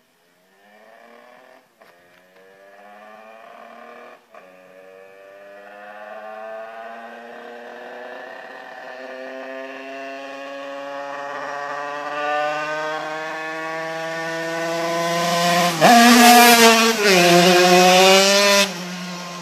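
Derbi DRD motorcycle with an 85cc Barikit two-stroke kit engine running, growing steadily louder as it comes closer. Near the end it is loud and close, with revs rising and falling.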